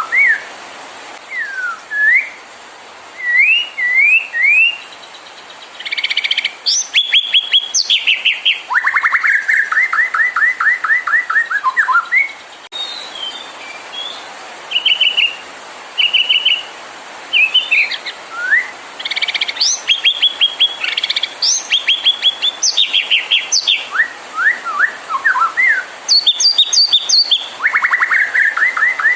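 White-rumped shama (murai batu) singing: varied whistled phrases with upward-sweeping notes, high chips and fast rattling trills. Similar runs of trills come twice, about halfway apart.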